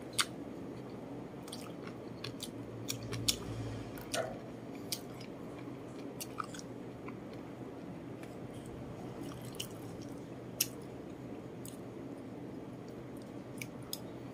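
Close-up chewing and biting of rice and braised chicken, with scattered sharp clicks a few seconds apart over a steady low hum.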